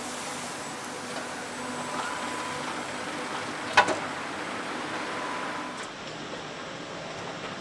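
Steady hum and hiss of machinery on an engine assembly floor, with faint steady whines. There is one sharp knock about four seconds in.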